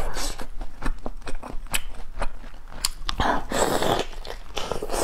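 Close-miked biting and chewing of cooked spiny lobster tail meat: a run of small clicks and mouth noises, with a louder noisy patch about three and a half seconds in.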